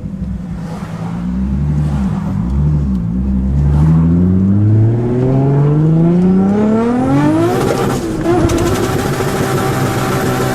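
Turbocharged RB25 2.5-litre straight-six in a Nissan 240SX, heard from inside the car. It runs low for a few seconds, then pulls hard with the revs climbing steadily, and from about eight seconds in it holds flat at high rpm, stuttering against the rev limiter.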